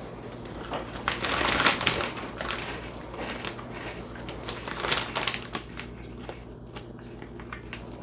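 Crunching of crisp onion-flavored ring snacks being chewed, in irregular crackly clusters that thin out toward the end.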